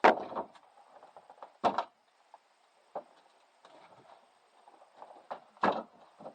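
Firewood knocking: three loud, hard knocks, the first right at the start, the next about a second and a half later and the last near the end, with a few lighter knocks between.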